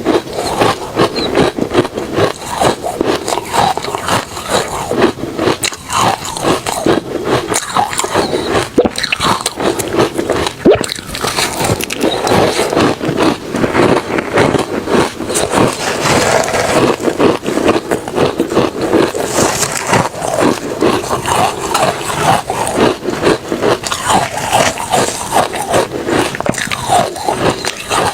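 Refrozen crushed ice and shaved ice being bitten and chewed: continuous, dense crunching and crackling.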